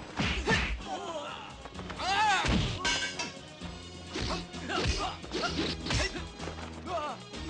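Kung fu film fight sound effects: repeated punch and kick impacts with fighters' shouts, over background film music.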